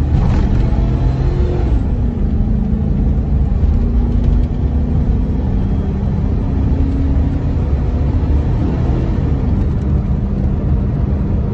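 Hummer H2's V8 engine and exhaust running while driving, the deep engine note rising and falling a few times.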